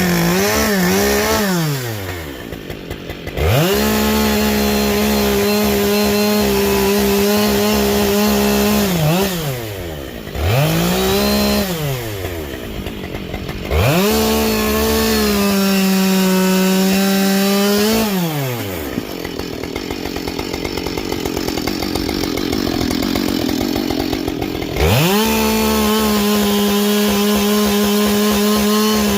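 Husqvarna 572 XP chainsaw with a carbide chain bucking logs. The engine revs to full throttle and holds steady for a few seconds through each cut, then drops back toward idle, four times over.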